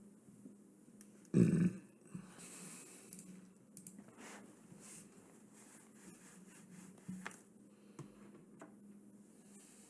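A short, loud throaty vocal sound from a person about a second and a half in, followed by faint scattered clicks and rustling.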